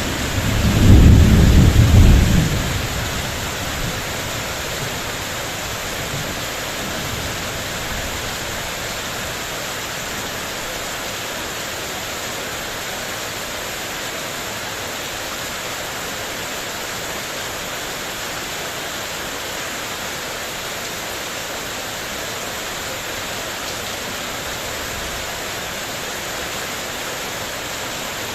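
A loud clap of thunder rumbling for about two seconds near the start, then steady heavy rain.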